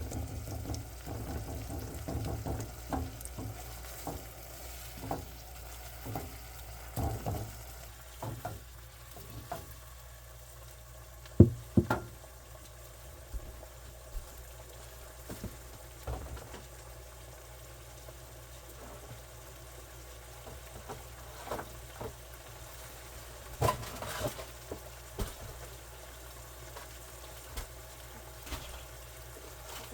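Food sizzling in a frying pan on a stove, a steady hiss, with scattered knocks and scrapes of a utensil against the pan. The loudest knocks come about a third of the way in and again past the three-quarter mark.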